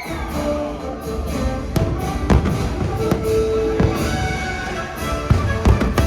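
Orchestral fireworks-show music playing loudly, with several firework bangs breaking through it.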